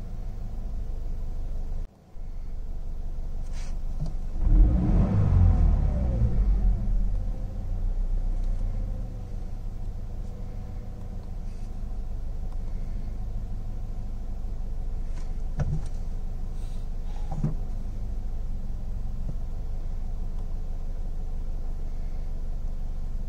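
Toyota GT86's 2.0-litre flat-four boxer engine idling steadily, heard from inside the cabin, with a brief rise in revs about five seconds in that falls back to idle. Two short clicks come later on.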